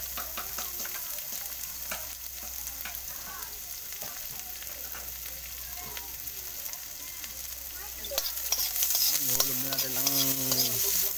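Sliced ginger and shallots sizzling in hot oil in a wok: a steady high sizzle with small pops. About eight seconds in, a spatula starts stirring and scraping, and the sizzle gets louder.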